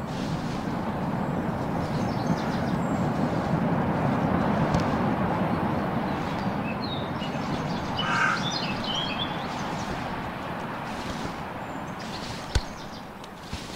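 Outdoor rushing noise that swells and then slowly fades, with a bird calling briefly about eight seconds in and a single sharp knock near the end.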